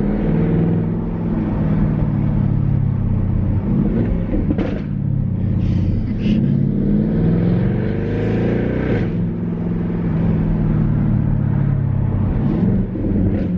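2011 Jaguar XK's naturally aspirated 5.0-litre V8 running through a muffler-deleted exhaust while the car is driven. The exhaust note is deep, and it rises in pitch twice as the car accelerates.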